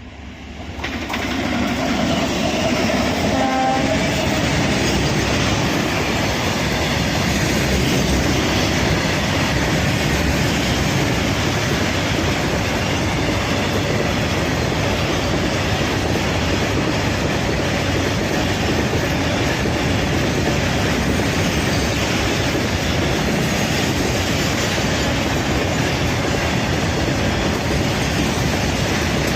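Indian Railways train coming in fast and crossing a river bridge. Its wheels and carriages make a loud, steady rumble that builds up over the first two seconds. A short horn sounds about three to four seconds in.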